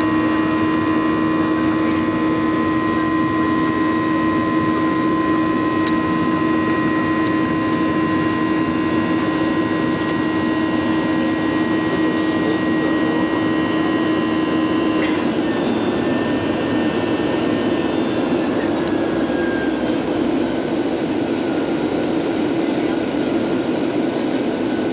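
Jet engines of a Southwest Boeing 737 climbing after takeoff, heard from inside the passenger cabin: a steady roar of rushing air with a high engine whine. About fifteen seconds in the whine breaks off and a lower tone slowly slides down in pitch.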